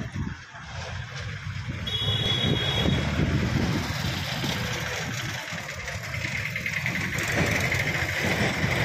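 Gaya–Patna MEMU electric train approaching along the track: a low rumble that grows louder, with a brief high tone about two seconds in and a higher hiss building near the end.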